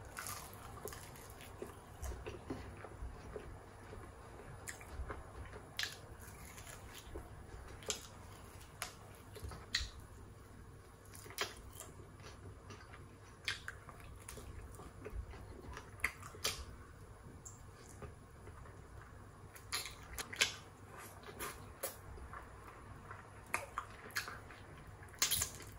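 Close-up chewing and biting of a sauced fried chicken piece: faint, irregular soft crunches and mouth clicks as the meat is eaten off the bone.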